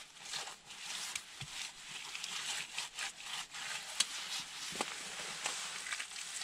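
Wet clay mortar being smeared and pressed onto a stove wall: repeated rubbing and scraping strokes with a few small knocks.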